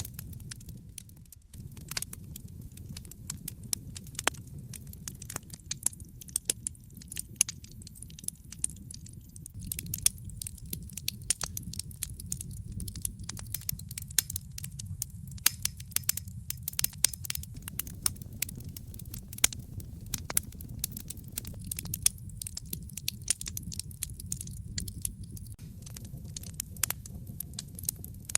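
Wood fire crackling in a fireplace: frequent sharp pops and snaps, irregular and many each second, over a low steady rumble of the flames.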